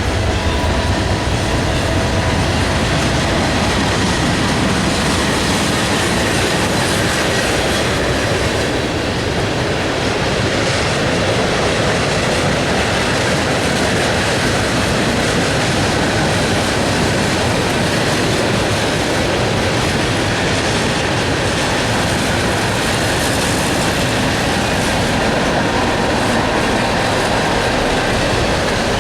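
A 58-car freight train rolling past close by, with the steady noise of its wheels on the rails.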